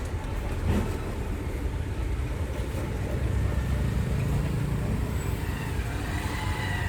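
Car driving, heard from inside the cabin: a steady low rumble of engine and road noise, with a single bump about three quarters of a second in.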